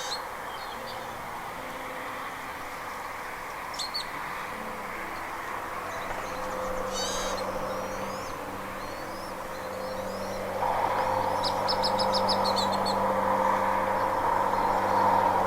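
Short, high bird calls come every few seconds, with a quick run of about eight sharp notes near the end. Underneath is a steady background rush, and a steady hum comes in about two-thirds of the way through, making the whole sound louder.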